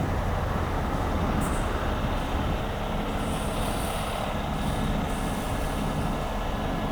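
Heavy diesel truck engine running steadily, with a constant rushing noise over it.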